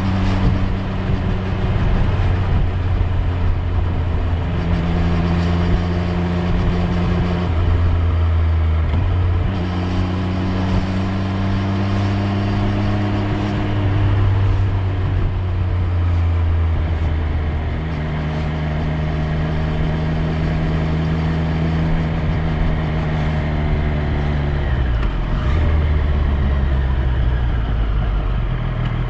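Triumph Street Triple 765 R's inline three-cylinder engine running under way, its note stepping up and down in pitch several times as the bike speeds up and eases off.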